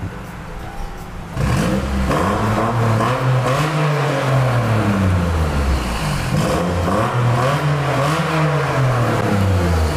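Lexus RC350 F Sport's 3.5-litre V6 starting up about a second in, then revved twice, the engine note rising and falling each time.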